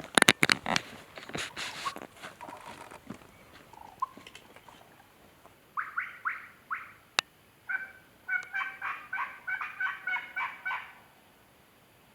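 Rustling and footsteps at first, then turkey yelping from a hunter's turkey call: three quick strokes about six seconds in, then a run of about ten yelps at roughly four a second that stops abruptly, calling to locate gobbling toms.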